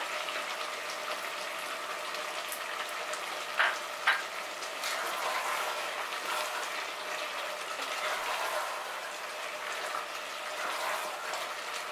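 Mutton and potato pieces sizzling as they fry in their spiced onion masala in an open pressure-cooker pot, stirred with a spatula, at the stage where the meat is fried down until the oil separates. A couple of sharp knocks of the spatula against the pot about four seconds in.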